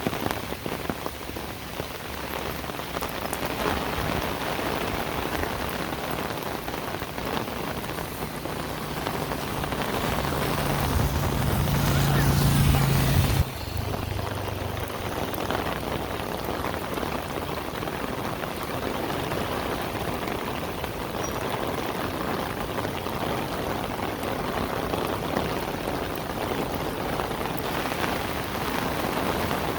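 Heavy rain falling steadily. From about eight seconds in, a low engine hum builds louder, then cuts off suddenly about thirteen seconds in.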